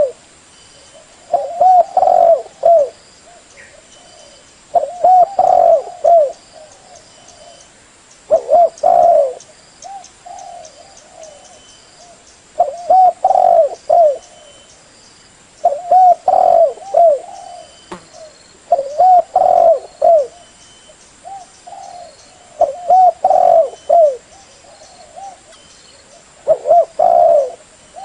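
Spotted dove cooing: a phrase of several low, hooting notes repeated about every three to four seconds, some eight times. It is a decoy bird's call, used to lure wild spotted doves.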